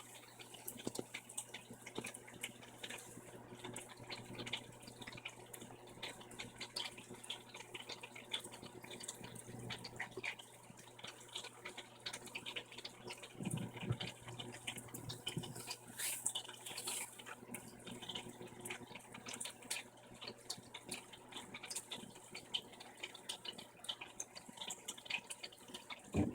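Brastemp 15 kg top-load washing machine draining: the drain pump hums steadily while water splashes and gurgles through it, with a louder low surge about halfway through. The owner calls this drain pump slow.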